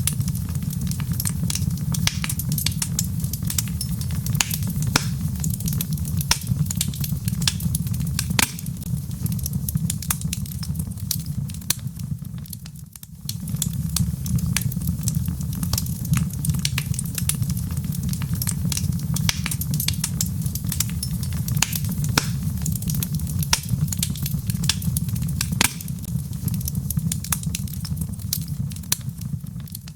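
Log fire burning in a fireplace: frequent sharp crackles and pops from the burning wood over a steady low rumble of the flames. It dips briefly about halfway through.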